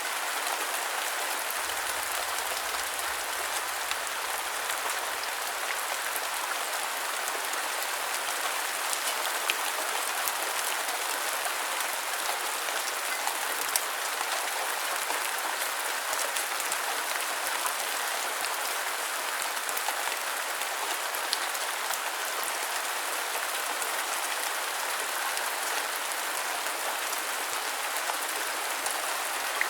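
Steady rain falling, an even hiss with scattered individual drops ticking; a couple of the drop ticks stand out louder.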